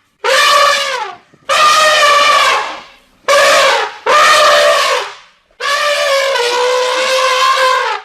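Elephant trumpeting: five loud, brassy calls in a row, each about one to two and a half seconds long, the last one the longest.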